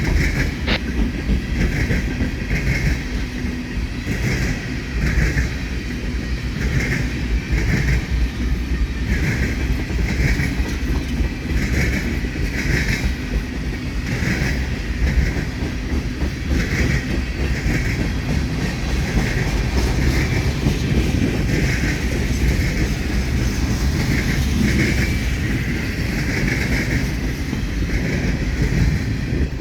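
Freight cars of a long train rolling across a railroad diamond crossing: steady rumble of steel wheels with repeated clacks, often in pairs, as wheelsets strike the gaps in the crossing.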